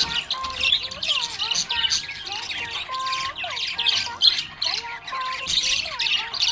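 Budgerigars chirping and warbling continuously in rapid, busy bursts.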